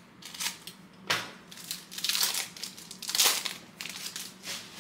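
Trading-card pack wrapper being torn open and crinkled in the hands, in several separate crackling bursts.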